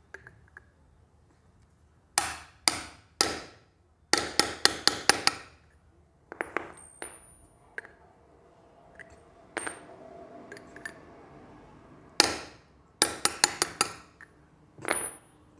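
Metal tools and motorcycle front-fork parts clinking and tapping together in short runs of quick knocks, some with a brief high metallic ring.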